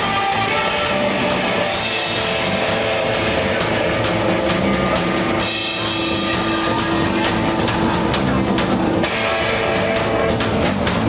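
Live rock band playing an instrumental passage: a drum kit with kick drum and cymbals under sustained electric guitar notes.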